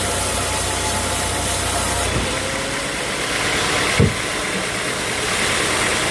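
Sawmill machinery running steadily. Its low hum drops away about two seconds in, and a single thump comes about two seconds later.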